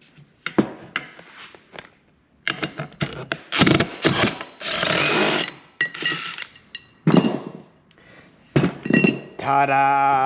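Clicks, knocks and scraping from tools and metal parts being worked loose while a Ryobi table saw is taken apart, with a short steady rasping stretch a little before the middle.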